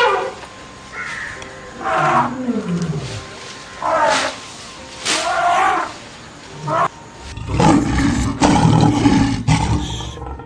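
A big cat giving several short roaring calls about a second apart, then a long, low, rumbling growl from about halfway in.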